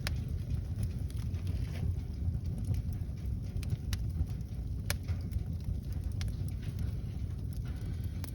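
Newly lit kindling fire in a fireplace crackling, with scattered sharp pops (one of the loudest about five seconds in) over a steady low rumble.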